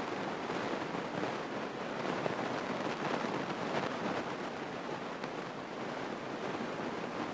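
Steady cabin noise of a Grumman single-engine light plane in its climb after takeoff. The engine and airflow come through as an even rush with no distinct tone.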